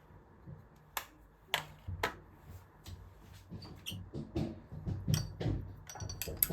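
Sharp clicks and knocks of objects being handled and set down: three separate clicks about half a second apart from about a second in, then a quicker run of taps and dull thuds, with a short ringing clink near the end.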